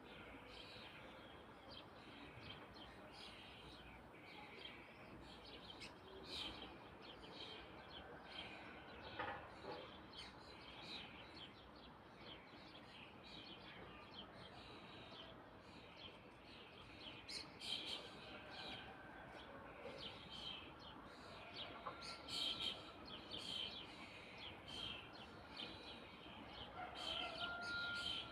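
Birds chirping: many short, high calls repeated over a faint steady background, growing busier in the second half.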